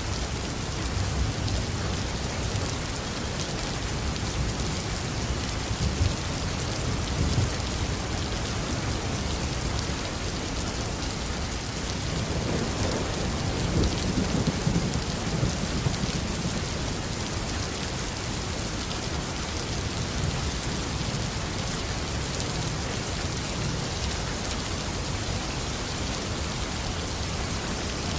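Heavy rain falling steadily on a roof, with a low rumble of thunder swelling up in the middle.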